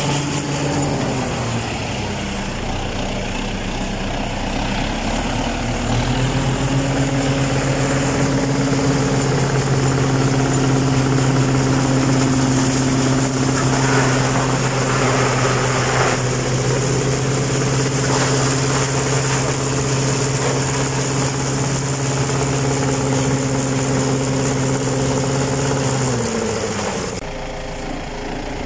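Tractor engine running, dropping in speed about a second in, then revving up around six seconds in and holding a steady higher speed before slowing again near the end.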